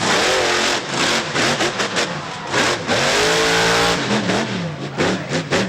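Monster truck engine revving hard, its pitch climbing and falling again and again, with a long climb about three seconds in, over a loud roar broken by sharp cracks.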